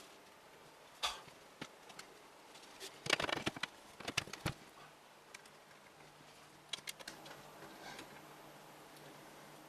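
Light clicks and knocks of computer case hardware being handled, with a cluster of rattly clicks about three seconds in and a sharper knock a second later, over a faint steady low hum.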